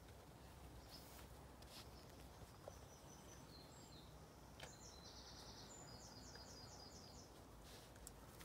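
Near silence: faint ambience with a songbird's short high calls and a quick repeated trill in the middle, and a few soft clicks.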